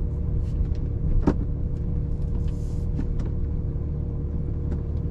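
2007 Porsche 911 Turbo's twin-turbo flat-six idling with a steady low hum and a faint steady whine. A few light clicks and knocks come over it, the most distinct about a second in.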